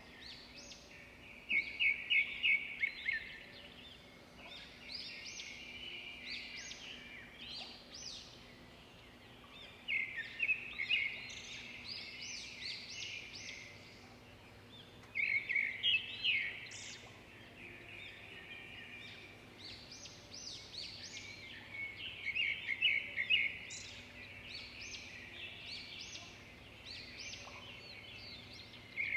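Several birds singing and chirping together in a continuous outdoor chorus, with louder bursts of rapid trilled chirps every few seconds.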